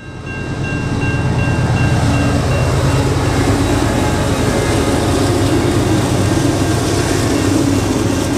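Heavy-haul diesel-electric locomotives at the head of an iron ore train passing close by. Their engines are loud and steady after building up over the first second, with wheel and rail noise. A level crossing warning bell rings high above them as a steady, pulsing tone.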